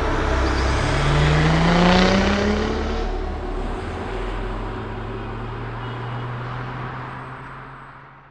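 Audi A5 accelerating: engine pitch rises from about a second in, then the sound fades away near the end.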